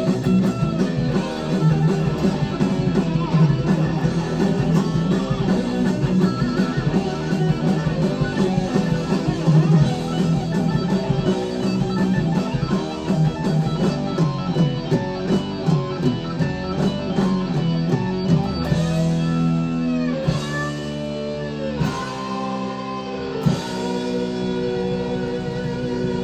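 Heavy-metal lead electric guitar played through a Blackstar amp: fast runs of notes, then long sustained notes bent up and down in pitch in the last third.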